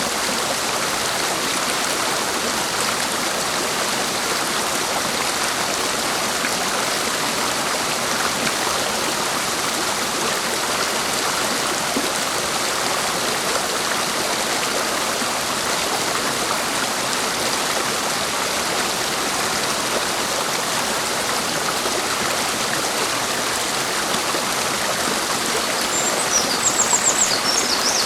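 Clear mountain stream rushing steadily over rocks. Near the end, a small bird adds a quick run of high chirps.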